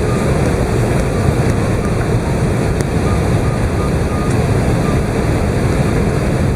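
Steady rumble and rush of cabin noise aboard an Airbus A380, from the engines and the airflow over the fuselage, heavy in the low end.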